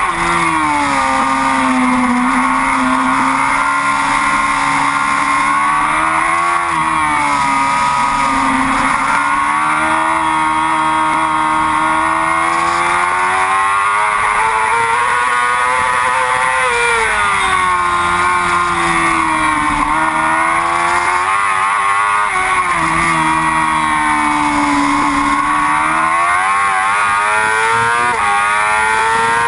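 Yamaha R6 racing motorcycle's inline-four engine running hard at high revs, its pitch climbing and falling again and again through gear changes and slowing for corners.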